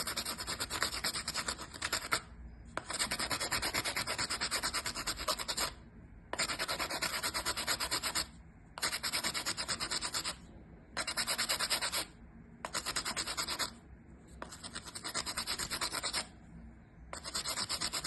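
A stick of charcoal being scraped to a sharp point, in about eight spells of quick scraping strokes with short pauses between them as the stick is turned.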